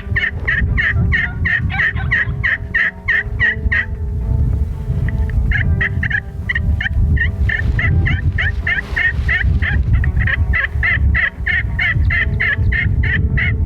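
Merriam's wild turkeys calling: a fast, even run of short notes, about six a second, that breaks off for a moment about four seconds in and then starts again.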